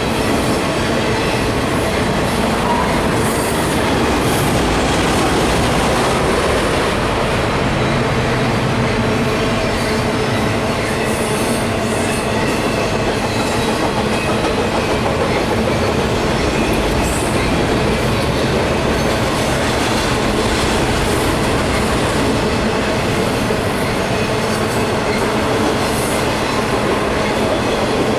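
Freight train cars rolling past close by: a steady rumble and clatter of steel wheels on rail.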